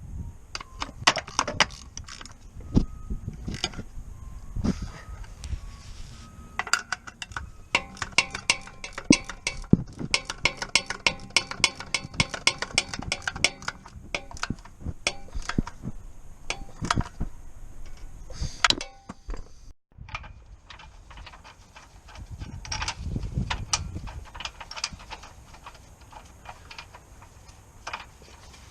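Hand tools working on metal: a ratchet clicking in runs, with scattered clinks and knocks. The clicking is densest and fastest in the middle stretch.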